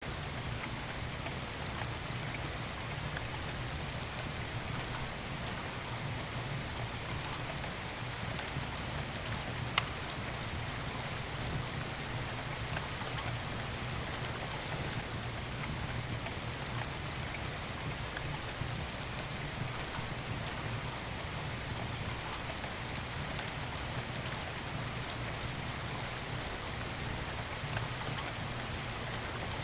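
Steady rain with the crackle of a wood fire: scattered sharp clicks over the rain's even hiss, one louder pop about ten seconds in.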